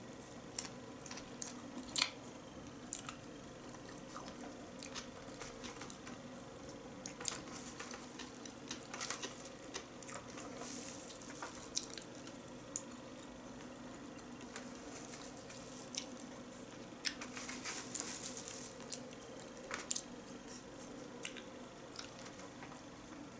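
Close-miked chewing of sushi rolls: wet smacking and squishing mouth sounds with scattered sharp clicks, and a denser run of smacking about ten seconds in and again around eighteen seconds.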